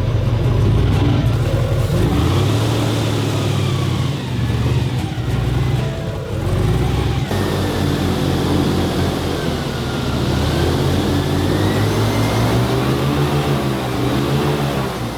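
Airboat engine and propeller running loud, the pitch rising and falling as the throttle changes. The sound shifts abruptly about seven seconds in.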